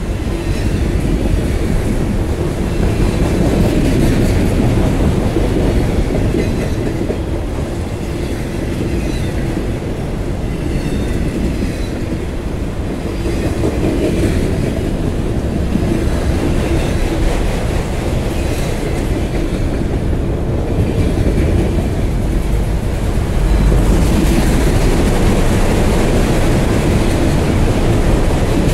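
Empty autorack cars of a freight train rolling past, wheels clacking steadily over the rail joints.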